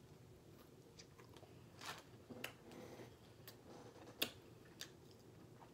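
Faint chewing of a soft sub roll filled with crab salad, with scattered wet mouth clicks and smacks; the sharpest click comes about four seconds in.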